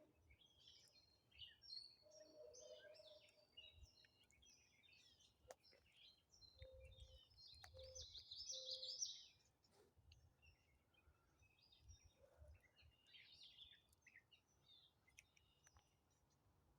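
Several birds singing faintly, with many short chirps and trills and a louder rapid trill about eight seconds in. A few low whistled notes and some brief faint clicks come between them.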